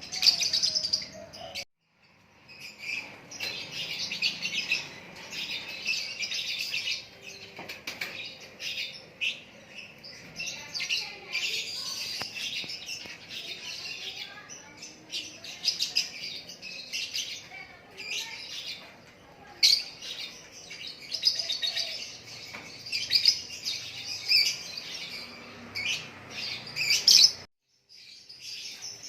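A songbird chirping and singing continuously in quick, high notes, cutting out briefly about two seconds in and again near the end.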